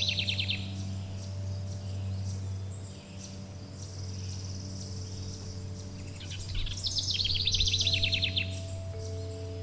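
Birds singing: a fast trilling phrase near the start and again about seven seconds in, with a thin steady high note in between. Beneath them runs a steady low drone of held musical tones, with new notes entering near the end.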